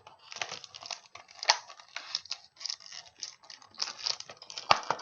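Packaging being handled and worked open: irregular crinkling and rustling, with a sharp knock near the end.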